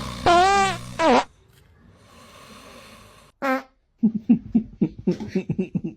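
A pet farting: a loud, wavering, pitched fart about a second long near the start, and a short squeaky one about three and a half seconds in. Then comes a quick run of short pulsing sounds, about five a second.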